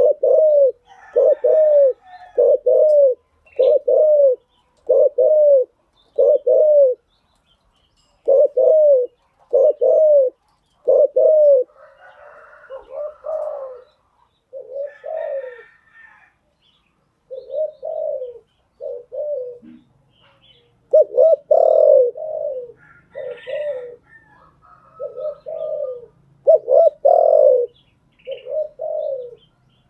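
Spotted dove cooing: a run of short, low coos, about one a second, then after a gap a looser, more broken series of coos.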